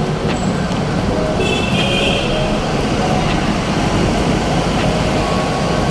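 Steady rush of road and wind noise from riding a bicycle in traffic, with a brief high-pitched tone about a second and a half in.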